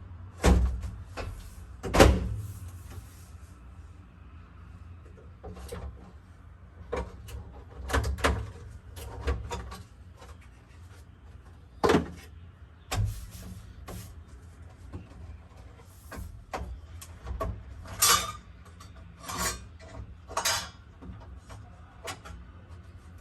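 Irregular clicks, knocks and rattles of a washing machine's plastic top cover and parts being handled, the loudest about two seconds in and a quicker run of clicks near the end.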